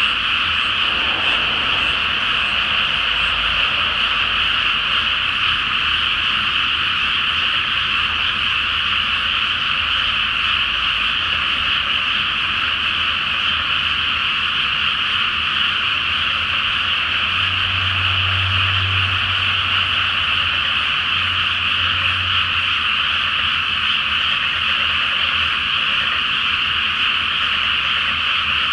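A dense chorus of many frogs calling at once in a flooded rice paddy, merging into one steady, unbroken wall of high croaking. A faint low hum joins it for a few seconds past the middle.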